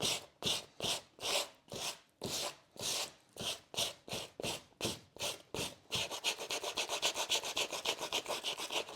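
Sandpaper rubbed by hand over the surface of an oil painting in back-and-forth strokes, about two or three a second. About six seconds in it changes to quicker, shorter strokes. The sandpaper is scuffing through paint that is not yet fully dry.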